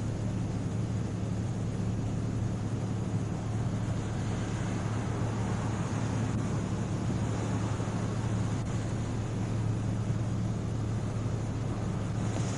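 Steady low hum of an idling vehicle engine, with an even rushing noise over it.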